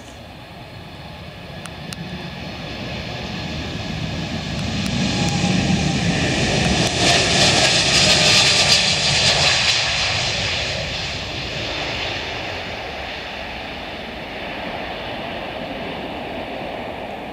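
Jet airliner's engines passing on takeoff: the noise swells to a peak about halfway through, then fades as it climbs away, with a faint whine that drops in pitch as it goes by.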